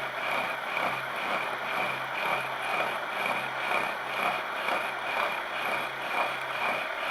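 Milling machine running with a high-speed-steel cutter slowly taking a light cut, about 2 mm deep, in a lathe tool holder. It gives a steady hum with a constant high whine and the even noise of the cut.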